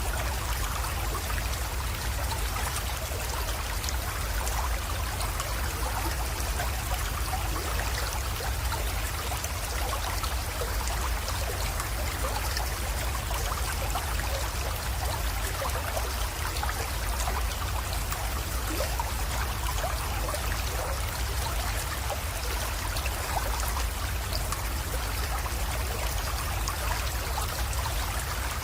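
Small creek water flowing and trickling steadily over stones, with a low, even rumble underneath.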